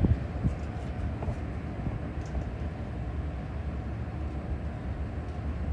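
Steady low rumble of a running engine, with a few knocks in the first half second.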